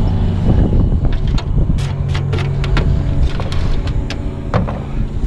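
Electric angle grinder running with a steady hum while its disc is pushed against wood, giving many short scraping and knocking contacts.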